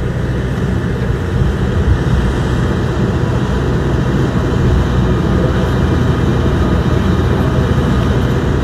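Steady, loud rumble of a running vehicle, with no speech.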